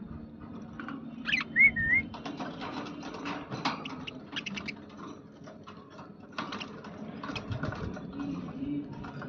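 Budgerigars chattering, a run of quick clicks and chirps. A short wavering whistle about one and a half seconds in is the loudest sound.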